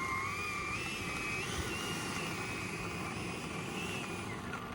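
Whine of the Freewing Zeus 90mm electric ducted fan on 8S, with a steady rushing noise underneath. The fan's pitch wanders up and down with throttle and drops off about four seconds in.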